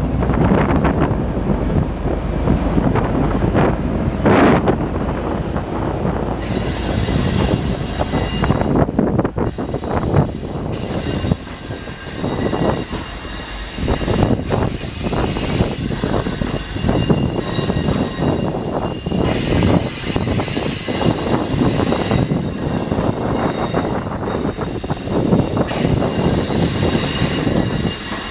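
V/Line passenger train departing, its wheels rolling and clacking over the rails with wind buffeting the microphone. From about six seconds in, the wheels squeal steadily with several high tones at once.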